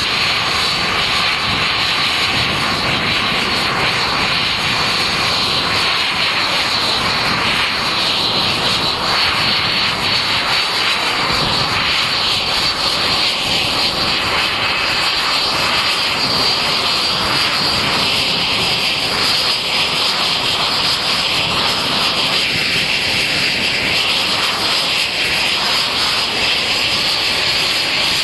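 F-86 Sabre's turbojet engine running on the ground, loud and steady, with a high whine over the jet noise and no change in pitch or power.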